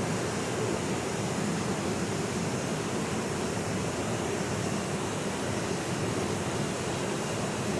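Waterfall: a steady, unbroken rush of falling water, deepest and strongest in its low rumble.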